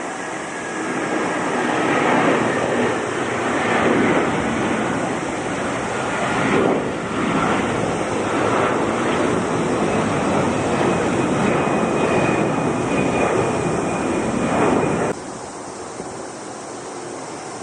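Jet airliner taking off, its engines at takeoff thrust: a loud, steady rumble with a thin whine over it, which cuts off suddenly about fifteen seconds in.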